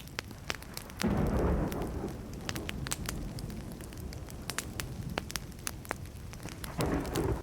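Burning wood fire crackling with frequent sharp pops, and a low rumble of distant thunder that starts suddenly about a second in and fades away over several seconds, swelling again near the end.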